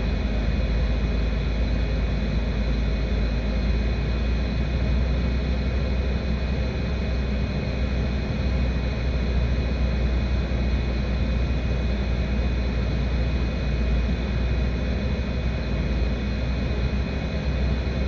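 A steady low rumble with a few faint, steady high-pitched tones over it, unchanging throughout.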